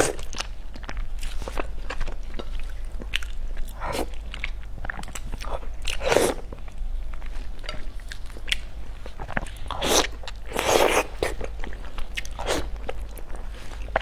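Close-miked eating: a person chewing and biting food with wet mouth clicks, irregular throughout, with a few longer, louder bursts about six and ten seconds in.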